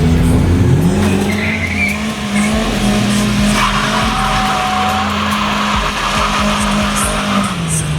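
A car engine revs up and is held at high revs while its tyres squeal and skid in a drift, with the revs dropping off near the end.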